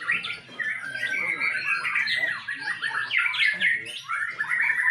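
Many caged murai songbirds singing at once: a dense, unbroken chorus of overlapping chirps, trills and whistles.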